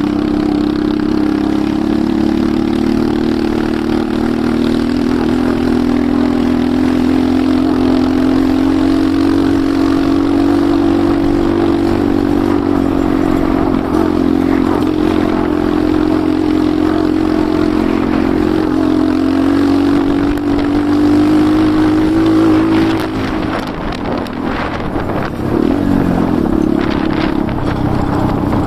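Enduro motorcycle engine running steadily while being ridden, its pitch drifting slowly with the throttle. About 23 seconds in it drops back and sounds rougher for a few seconds, then picks up again.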